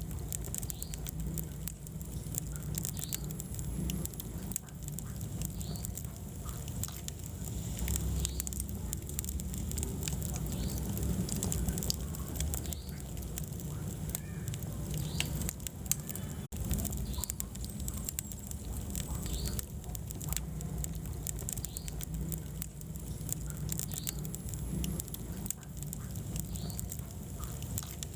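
Wood fire burning in a fireplace: a dense run of irregular crackles and pops over a steady low rumble of flame. The sound drops out for an instant about two-thirds of the way through.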